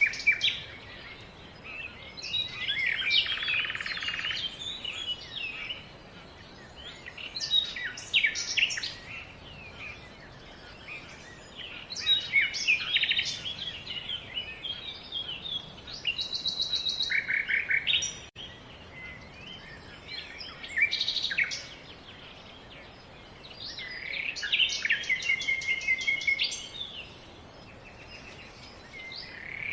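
A songbird singing in short varied phrases every few seconds, some with quick trills and rapid repeated notes.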